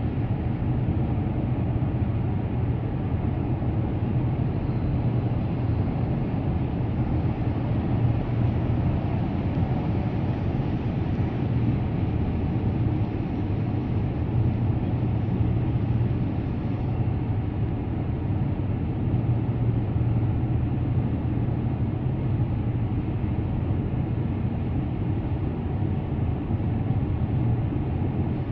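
A car driving steadily at road speed: a constant low rumble of tyre and road noise with engine hum, unchanging throughout.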